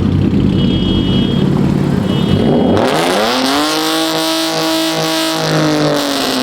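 A car doing a burnout. The engine runs at a low rumble, then about three seconds in it revs up hard and holds high revs over a hiss of spinning tyres, easing off near the end.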